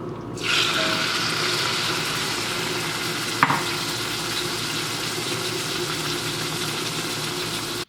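Jerk-seasoned chicken pieces sizzling steadily as they fry in a hot pan, with a single short clink of a utensil against the pan a little past the middle.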